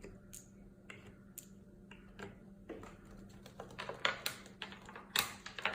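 Light, irregular clicks and taps of small hard objects on a hard surface, sparse at first and busier and louder in the second half, over a faint steady hum.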